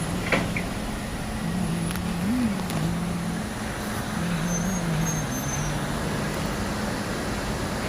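A motor vehicle's engine drones, its low pitch wavering up and down, over a steady rushing noise, with a sharp click just after the start.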